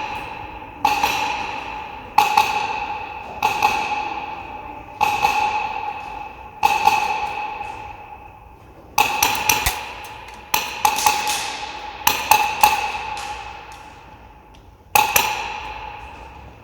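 Polarstar Kythera HPA airsoft rifle firing through a suppressor emptied of its baffles, so each shot is followed by a metallic ring that fades over about a second. Single shots come every second or so, with two quick bursts of about three shots just past the middle.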